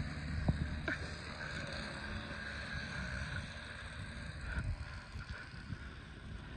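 Wind rumbling and buffeting against the microphone over a steady hiss of the storm, with soft, irregular thuds of footsteps wading through deep snow.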